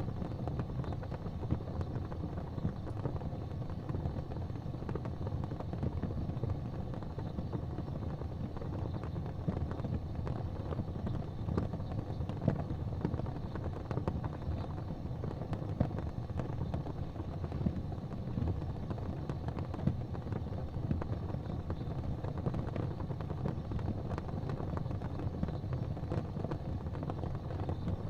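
Fireplace fire crackling, with scattered small pops and snaps over a steady low rumble.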